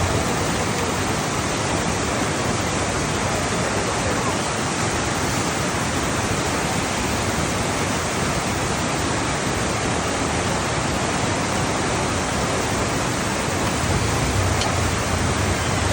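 Steady, unbroken rush of water from heavy rain and runoff, an even noise that holds at the same level throughout.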